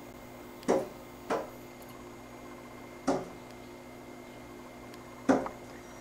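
A small bird striking a window pane again and again: four knocks on the glass in about five seconds, the first and last the loudest.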